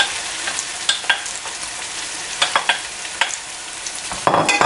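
Diced raw chicken searing over high heat in oil with onion and sausage, sizzling steadily, with clicks and scrapes of a wooden spoon stirring it in the pan. A louder burst of sizzling and scraping comes near the end.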